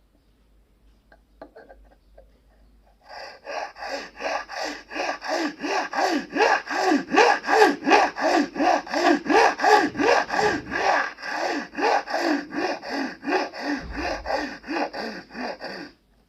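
Hand saw cutting with steady back-and-forth strokes, about three a second, starting a few seconds in and stopping abruptly near the end.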